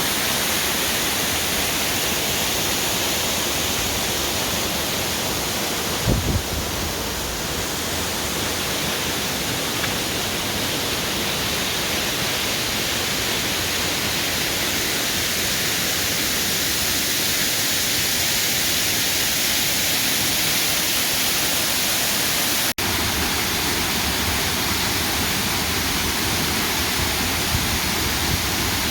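Waterfall pouring steadily, a dense even hiss of falling water. There is a brief low thump about six seconds in and a momentary dropout about three-quarters of the way through.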